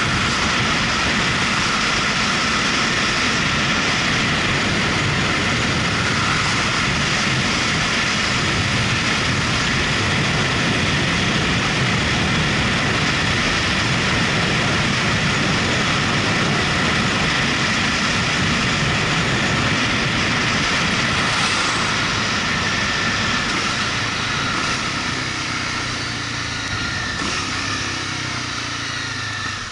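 Motorcycle on the move: a steady roar of engine and wind noise that grows quieter over the last few seconds.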